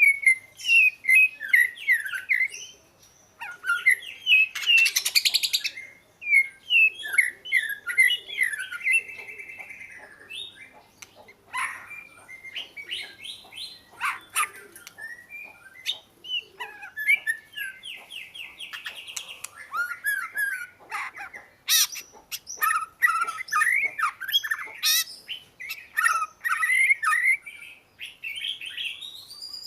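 Oriental magpie-robin singing: a long, varied song of clear whistles, quick chirps and short buzzy notes, delivered in phrases with brief pauses.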